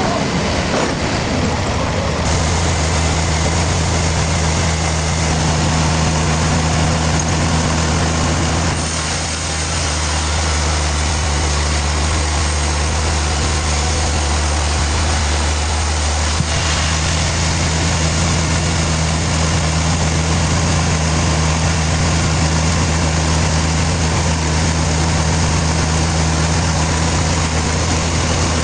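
Sawmill machinery running steadily, an engine's constant low hum under a broad mechanical noise, dipping briefly about nine seconds in.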